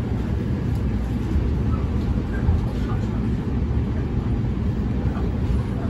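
Running noise heard from inside a JR East E231 series 1000 subseries commuter train at speed: a steady low rumble of the wheels on the rails and the running gear, with a few faint ticks.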